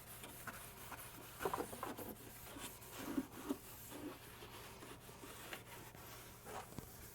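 Faint scrubbing and rubbing on the back of a stove, degreaser being worked into baked-on grease splatter spots, in irregular short strokes that are busiest about one and a half to four seconds in.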